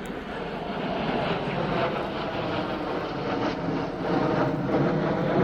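Military jet aircraft passing overhead, its engine noise growing steadily louder.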